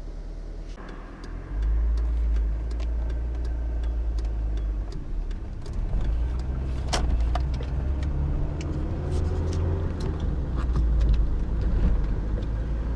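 A car driven from inside the cabin: low engine and road rumble that steps up as it pulls away about a second and a half in, then picks up speed. Scattered sharp knocks come through throughout, one loud one about seven seconds in. These are the front suspension and steering knocks that the owner suspects come from control arms shifting on the wrong-length, loose mounting bolts.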